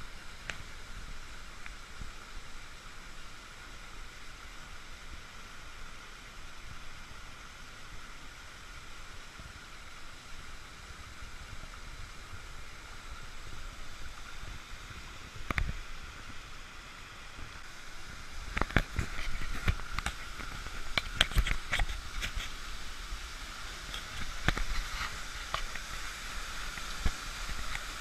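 Waterfall rushing steadily. From about two-thirds of the way in, a scatter of sharp clicks and knocks sits over it.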